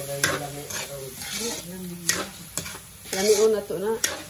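A metal spatula scraping and stirring diced meat in a steel wok, with the meat sizzling as it fries. Sharp scrapes of the spatula on the pan come several times. A pitched, voice-like sound rises in the background about three seconds in and is the loudest moment.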